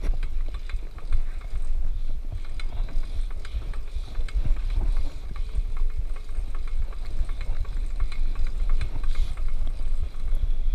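A child's bicycle rolling along as it is pushed, with scattered irregular ticks and rattles, over heavy wind rumble on the microphone.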